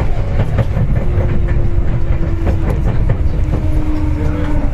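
Seibu 4000 series electric train running, heard from inside the passenger car: steady low rumble with repeated clicks of wheels over rail joints, and a faint whine that drops slightly in pitch as the train slows.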